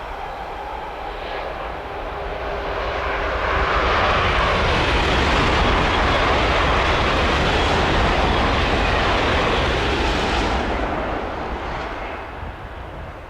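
A train passing at speed: a rush of noise that swells over a few seconds, holds loud, then fades away near the end.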